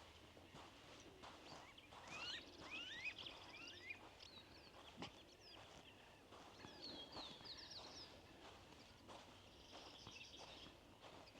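Faint birdsong. A run of quick sliding calls comes about two seconds in, then high rapid trills around the middle and again near the end. A single sharp click sounds about halfway.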